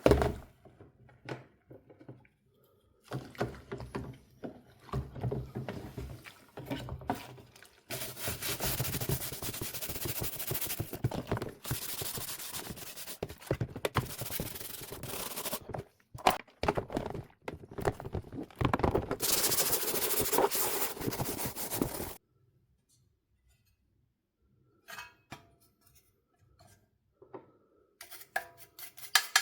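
Hand rubbing and scrubbing on PlayStation 4 parts during cleaning, in three stretches of several seconds each, with small handling knocks and clicks in between. It goes quiet about two-thirds of the way through, and a few light knocks follow near the end.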